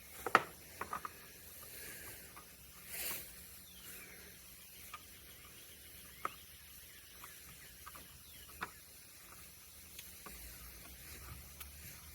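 Handling of a scooter mirror being threaded into its replacement mount: scattered small clicks and taps, the sharpest about half a second in, with a brief rustle around three seconds.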